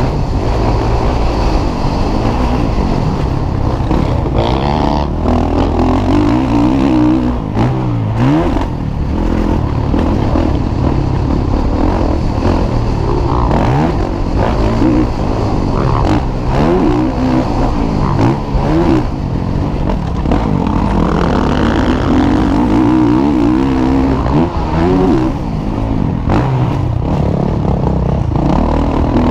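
Several MX1 motocross bikes racing, their engines revving up and down and shifting with overlapping rises and falls in pitch, steady and loud throughout.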